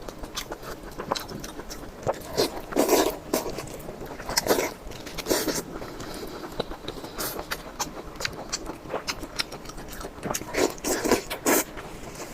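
Close-up mukbang eating sounds: a person biting and chewing, with many short mouth clicks and several louder clusters of bites.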